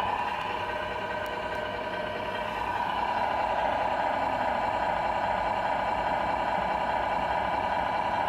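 RC Scania R470 model truck running with a steady truck-engine drone, dipping slightly about a second in and rising again near three seconds.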